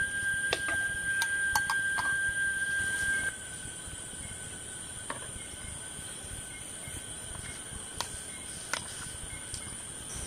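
A chorus of insects at dusk, several steady high-pitched tones held at once; the loudest one stops about three seconds in and the sound drops noticeably. A few sharp clicks and taps are heard here and there.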